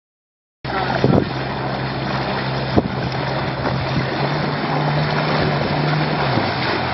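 A boat's engine running with a low steady hum, its pitch stepping up about halfway and dropping again near the end, over wind noise on the microphone. The sound cuts in abruptly after about half a second of silence.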